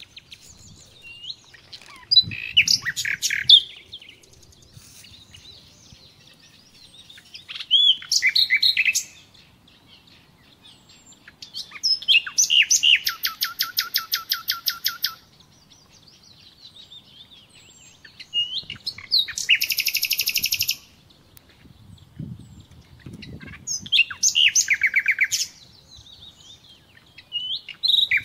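A songbird singing in phrases every four to six seconds, several of them fast trills of rapidly repeated notes.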